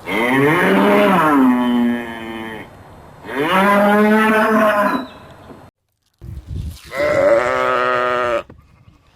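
A cow mooing: three long moos a second or so apart, each rising in pitch and then settling.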